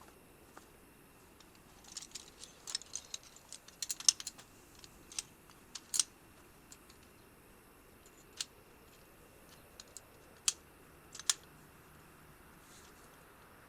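Sharp, irregular clicks and ticks, bunched in a quick flurry about two to four seconds in, then coming singly every second or two.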